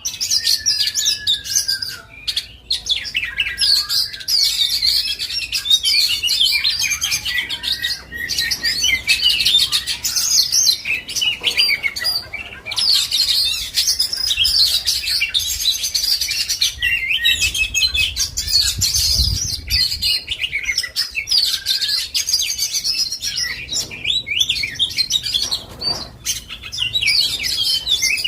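Oriental magpie-robin (kacer) in full song: a long run of rapid, varied whistles and chattering phrases, broken by a few short pauses.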